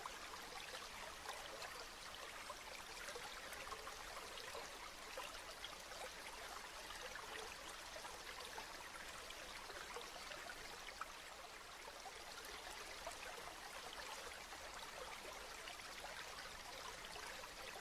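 Steady rain falling, an even hiss of water with many small drop ticks throughout.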